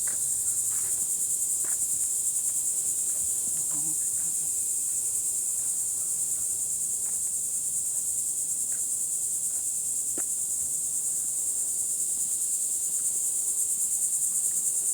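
Steady, high-pitched chorus of insects, a continuous shrill buzz from many callers at once. A few faint knocks turn up now and then beneath it.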